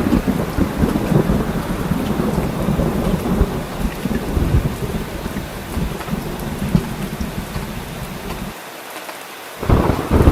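Rain falling steadily with a continuous low rumble of thunder. Near the end the rumble cuts out for about a second, then comes back.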